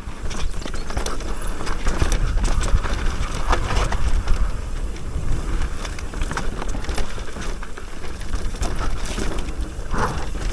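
Electric mountain bike descending a rough dirt trail: wind buffeting the microphone, with tyres on dirt and rocks and frequent rattles and knocks from the bike's chain and frame.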